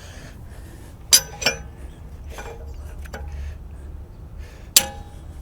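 Hard objects knocked together: two sharp clinks close together about a second in and a third near the end, each with a short ring, over a steady low hum.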